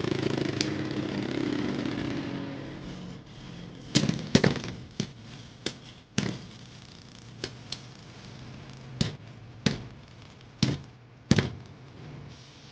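Two Beyblade spinning tops, a metal Lightning L-Drago and a plastic Cobalt Dragoon, whirring in a stadium. The whir fades over the first few seconds, then comes a string of sharp clacks as the tops collide, about a dozen hits spaced half a second to a second apart.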